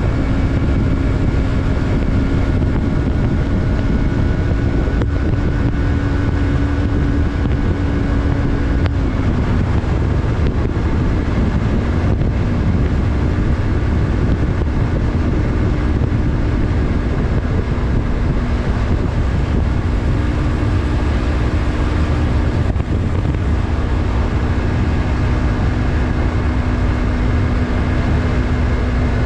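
Yamaha MT-03's parallel-twin engine running at a steady cruise, its note dropping slightly about nine seconds in, with heavy wind noise on the microphone.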